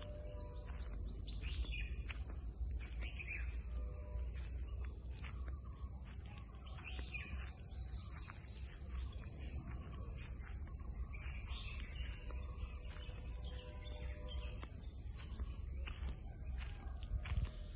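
Several forest birds calling with short chirps and whistles over a steady high insect drone, with a low rumble underneath.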